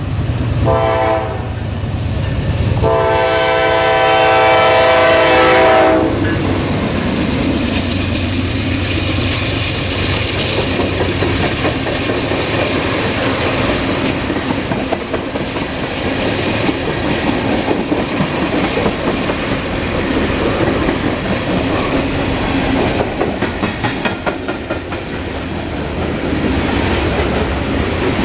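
Norfolk Southern freight locomotive's air horn sounding a short blast, then a longer one of about three seconds. After that comes the steady rumble and clickety-clack of the mixed freight cars rolling past on the rails.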